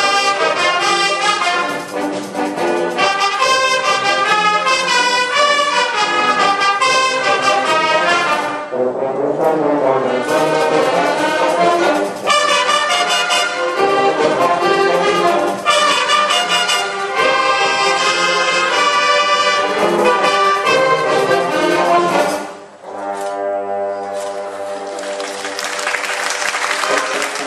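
A school marching band's brass and wind sections playing an encore piece, with trombones and trumpets prominent. About 22 seconds in the playing drops away briefly, then comes back as softer held chords that swell near the end.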